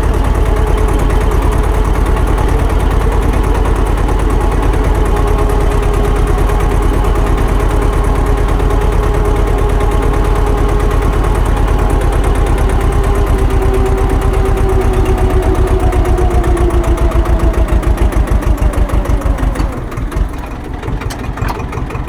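Swaraj tractor's diesel engine running steadily. Its pitch sinks slowly in the second half, then it drops to a slower, quieter idle near the end, with the individual firing beats plainly heard.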